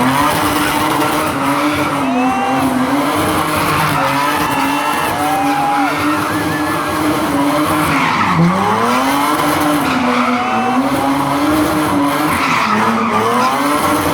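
Car engine revving hard and held at high revs, the pitch wavering, with one sharp drop and climb back about eight seconds in.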